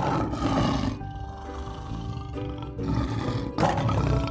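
Lion roaring, once at the start and again about three seconds in, over background music.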